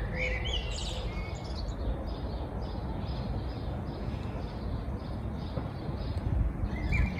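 Small birds chirping and singing, with short rising chirps in the first second and again near the end and fainter repeated high notes in between, over a low, uneven outdoor rumble.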